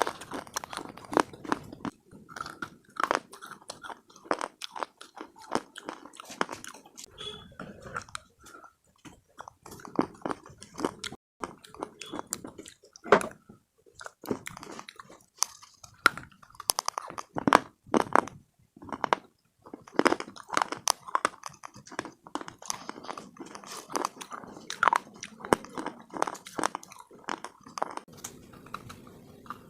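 Close-up biting and chewing of hard slate pieces (cubes and bars), a steady run of sharp, irregular crunches and crackles with a few brief pauses.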